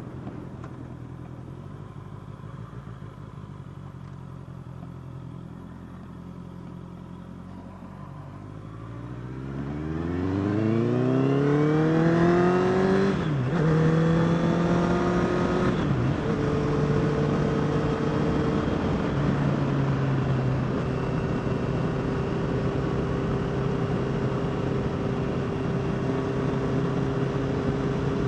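Honda CBR650R inline-four engine running low and steady, then accelerating hard with revs rising from about nine seconds in, shifting up twice in quick succession, and settling into a steady cruise.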